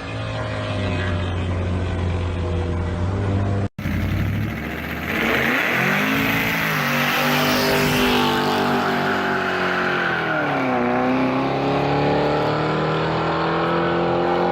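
Vehicle engine running steadily, then after a sudden cut about four seconds in, accelerating hard: its pitch climbs, drops sharply at a gear change about eleven seconds in, and climbs again.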